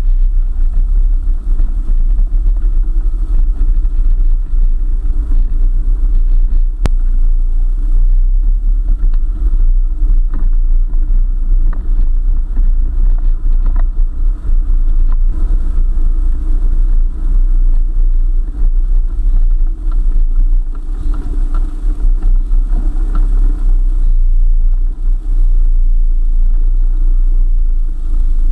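4x4 vehicle driving along a forest track: a steady, heavy low rumble of engine and drivetrain, with an occasional sharp knock.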